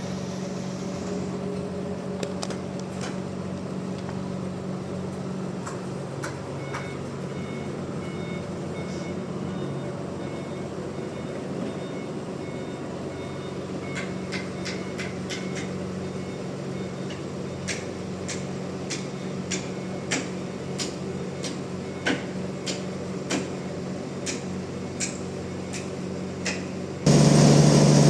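Sawmill machinery running with a steady low hum and faint intermittent beeping. A row of sharp knocks comes in the second half, and near the end a much louder engine sound starts abruptly.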